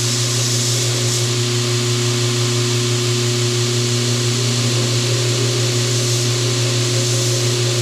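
An electric power tool motor running steadily in a workshop, a constant hum with a hiss above it and no change in speed.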